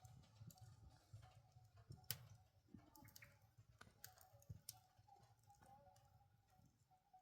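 Near silence with scattered faint clicks and taps at irregular intervals, the sharpest about two seconds in.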